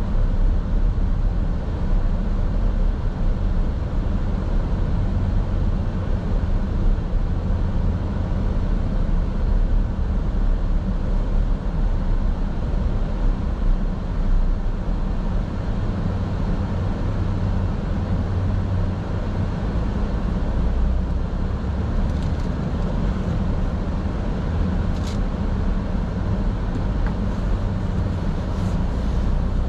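Car driving, heard from a dash camera: a steady low rumble of road and engine noise, with a few faint clicks near the end.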